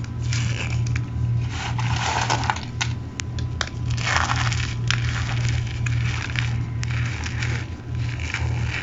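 Chunks of cornstarch crushed by hand, giving a squeaky crunch in irregular bursts with sharp crackles and clicks, over a steady low hum.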